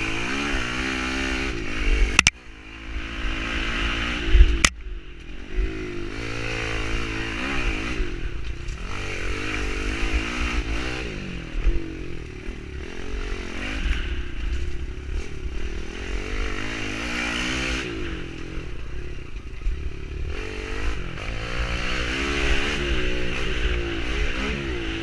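Kawasaki KLX110L pit bike's small air-cooled single-cylinder four-stroke engine being ridden hard, revving up and easing off again and again as it goes round the track. Two sharp knocks come in the first five seconds.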